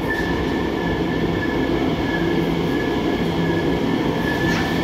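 Elizabeth line Class 345 electric train running in along an underground station platform, a steady rumble of wheels on rail with a high whine held throughout.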